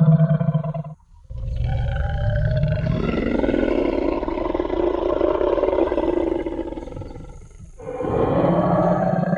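Tyrannosaurus rex roar sound effect: a low growl that cuts off about a second in, then one long roar of about six seconds that fades away, and another low growl starting near the end.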